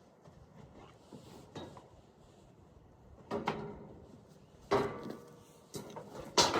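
A few sharp knocks and clatters, starting about three seconds in and coming roughly a second apart, some with a brief ring.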